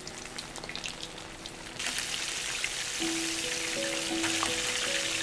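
Battered lotus root slices stuffed with minced pork deep-frying in hot oil. Light crackling swells into a dense, steady sizzle about two seconds in, and soft background music enters about a second later.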